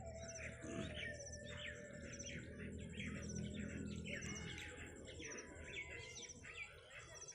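Small birds chirping repeatedly, over a low steady hum.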